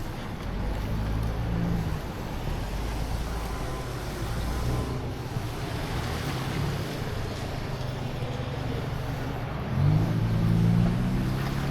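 Car traffic: steady engine and tyre noise from passing vehicles, with one car's engine getting louder near the end and rising in pitch as it pulls away.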